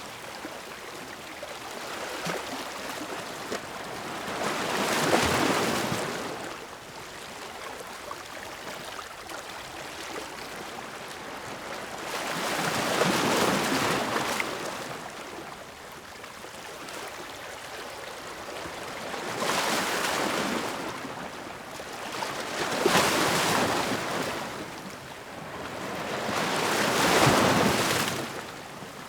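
Ocean waves breaking, five surges that swell and fade over a few seconds each, with a softer steady wash of surf between them.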